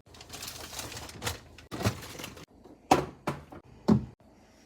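Items being handled and set down in a fridge: a rustle at the start, then a series of sharp knocks and clunks about half a second to a second apart.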